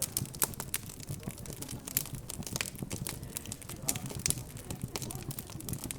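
Wood fire crackling with irregular sharp pops, over a low murmur of indistinct background chatter.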